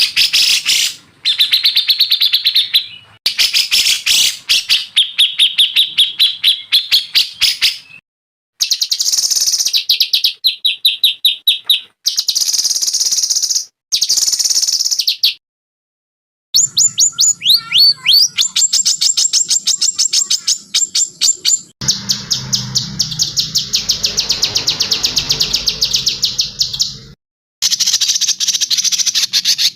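Songbirds singing in fast, rattling trills and chatter, played as a compilation of separate recordings. Each segment cuts off abruptly, with a brief silence before the next one begins.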